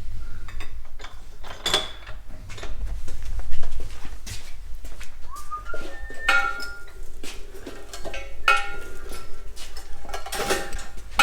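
Metal parts clinking and knocking against each other, a string of sharp taps, a few of which ring briefly.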